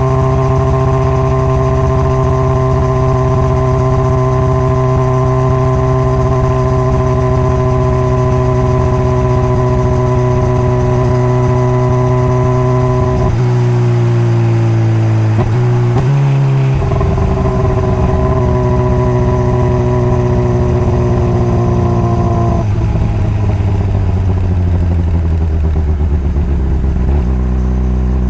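Honda CBR600RR inline-four engine running at a steady cruise, with shifts in engine pitch around the middle. In the last few seconds the engine pitch falls steadily as the bike slows.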